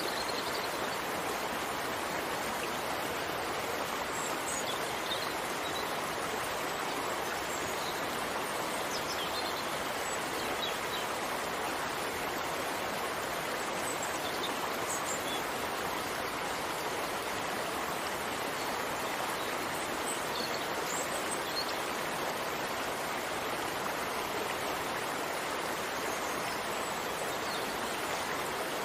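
Steady rain falling, an even hiss with a few faint high ticks scattered through it.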